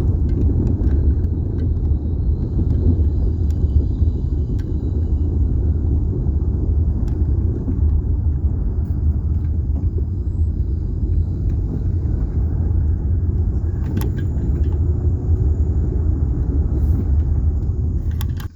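Steady low rumble of a car driving along a road, heard from inside the cabin, with a few faint clicks; it drops away abruptly at the end.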